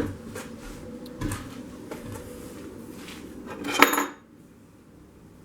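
Metal hand tools clinking and clattering as they are shifted and rummaged through, a few separate knocks with the loudest ringing clank a little under four seconds in.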